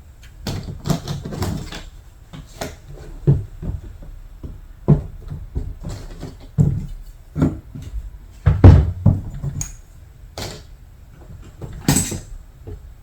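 Hand-tool strokes on a painted surface, stripping old paint and finish: a dozen or so irregular scrapes and rubs with dull knocks under them, the loudest about two-thirds of the way through.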